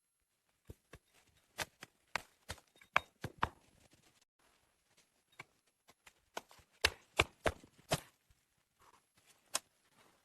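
A series of irregular sharp knocks and cracks, with a quick cluster of loud ones about seven to eight seconds in.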